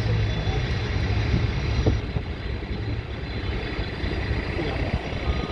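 A heavy vehicle's engine running steadily with a low rumble, with a few faint clicks over a steady background hiss.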